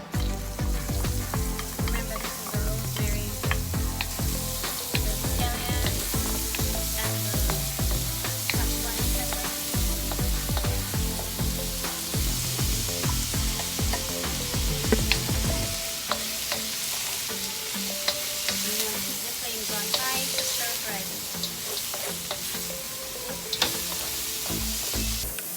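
Food frying in a hot pan, a steady sizzle, while it is stirred with a utensil, giving scattered scrapes and clicks.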